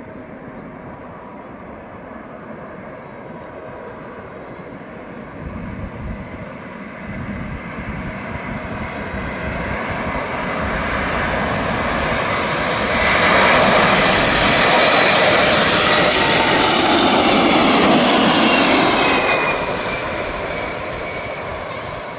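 Cargo aircraft engines passing: the roar builds steadily, is loudest from about halfway in until near the end, then fades, its engine whine dropping in pitch as it goes by.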